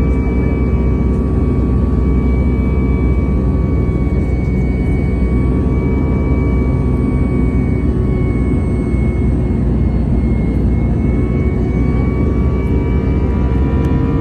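Cabin noise of an Airbus A320-214 with its CFM56 jet engines running, heard from inside the cabin: a steady, loud rushing hum with a few steady whining tones that waver slightly.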